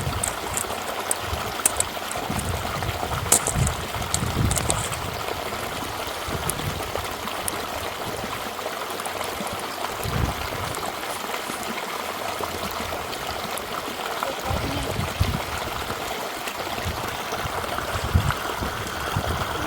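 A stream running steadily, with sharp clicks during the first five seconds and scattered low thumps.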